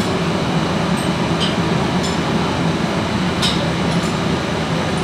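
Steady low machinery drone with a few light metallic clinks, twice standing out, about a second and a half in and again past the three-second mark.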